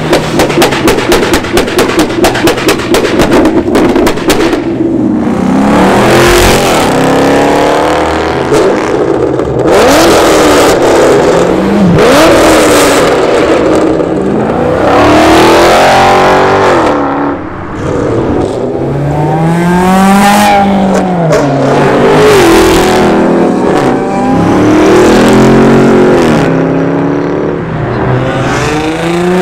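Car engines revved hard again and again, the pitch sweeping up and falling back many times. The first few seconds hold a fast crackle of exhaust pops.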